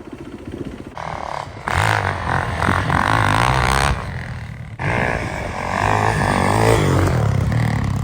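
Dirt bike engines running and revving on snow, heard in several short stretches that change abruptly.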